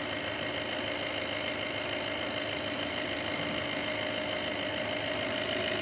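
Volkswagen Passat 2.0 TDI four-cylinder turbodiesel idling steadily with the bonnet open, a smooth, even running note with no change in speed.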